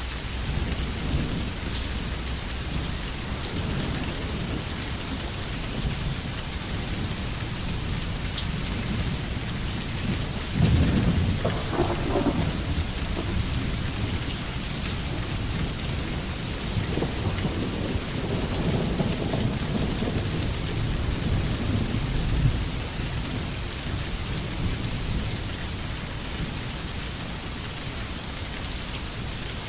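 Steady rain falling through forest trees, with thunder rumbling low underneath. A louder roll of thunder breaks in about a third of the way through, and a longer rumble builds and fades later on.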